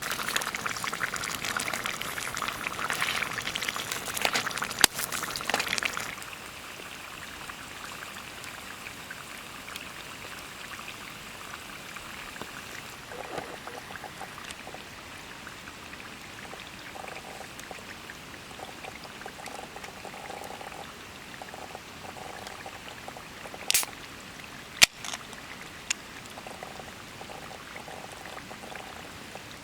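Liquid pouring for about six seconds, then a quieter steady hiss with a few sharp clicks near the end.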